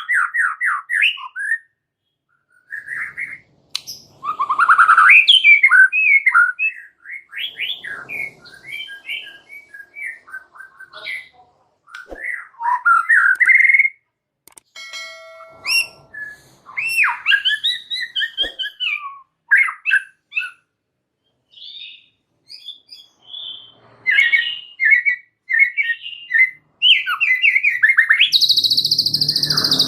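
White-rumped shama (murai batu) singing energetically: a varied run of quick whistled sweeps, trills and chattering phrases, broken by short pauses. Near the end a steady, loud, high-pitched buzz sets in.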